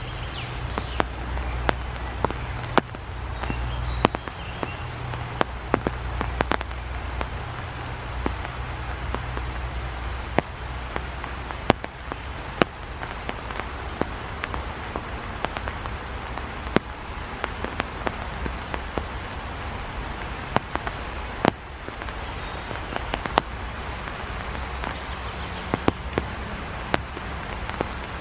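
Steady rain falling on wet asphalt: a constant patter with many sharp, irregular drop hits, over a low steady rumble.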